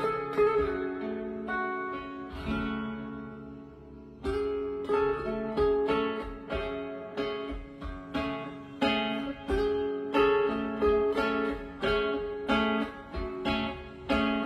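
Instrumental guitar passage of plucked, ringing notes, played back through Ali Acoustics Phoenix 3A SE loudspeakers and recorded on a phone. The notes fade to a soft lull about two to four seconds in, then pick up again in a steady picked pattern.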